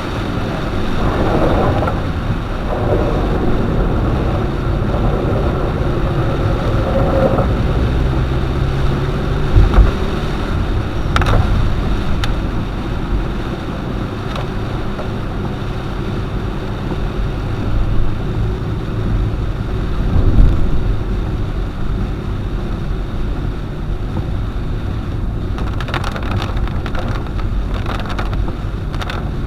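Car driving on a rain-wet road: steady engine and road rumble with tyre and water noise, and two heavier low thumps about ten and twenty seconds in.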